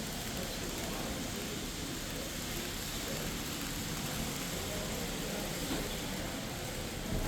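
Steady room noise with faint voices of people talking in the background.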